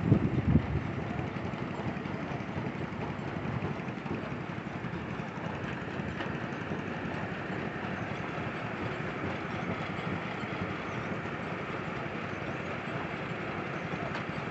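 An engine running steadily, with two loud knocks in the first second.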